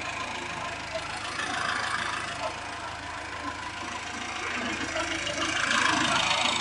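VW Polo 86C 2F engine idling steadily, warming up on a test run towards the temperature at which the radiator fan cuts in.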